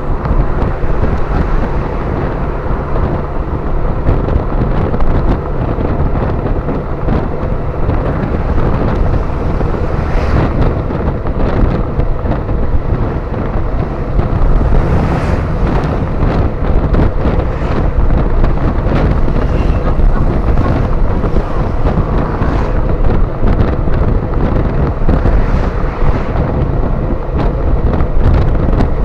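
Wind buffeting the microphone over a motorcycle engine running steadily while riding.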